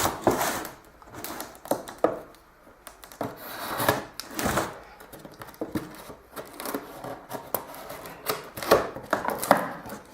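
Cardboard box being opened and its contents handled: irregular rustling, scraping and knocks of cardboard and packaging.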